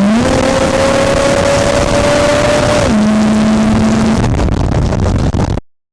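V8 engine of a chopper trike running loud at high revs. The engine note rises slightly just after the start, drops back about three seconds in, and cuts off abruptly near the end.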